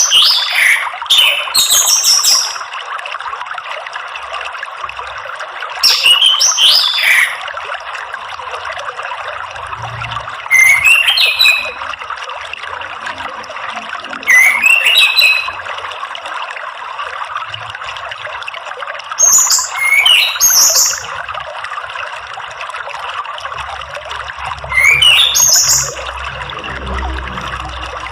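Orange-headed thrush singing short, high, rising song phrases, six in all and a few seconds apart, over the steady rush of running water.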